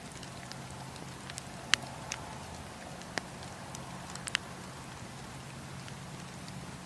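Wood campfire burning: a steady low rush with scattered sharp crackles and pops from the burning wood, the loudest a little under two seconds in and a quick pair just after four seconds.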